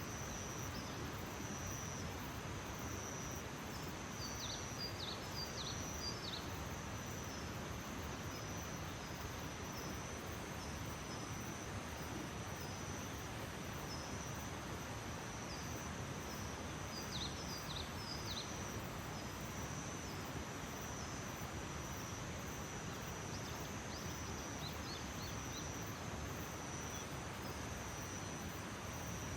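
Early-morning outdoor ambience: a steady, high-pitched insect trill over an even background hiss. Clusters of short, falling bird chirps come about four seconds in, again around seventeen seconds, and near twenty-five seconds.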